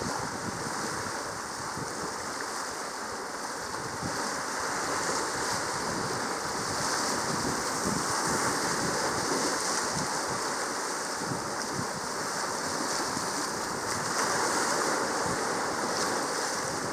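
Steady wash of sea waves, an even rushing noise that swells slightly and eases without clear separate breaks.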